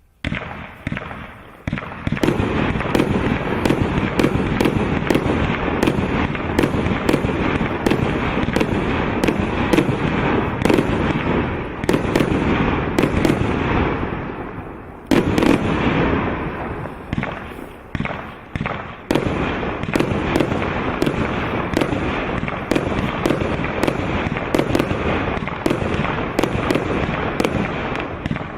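Multi-shot firework cake (a 183-shot PYRAMATIC barrage) firing: shot after shot in quick succession, the bangs overlapping into a continuous loud barrage. It eases briefly about halfway through and again a few seconds later, then picks back up.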